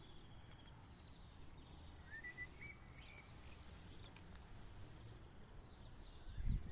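Faint short bird chirps, scattered singly and in small groups, over a low steady background rumble. Near the end a louder low rumbling noise starts.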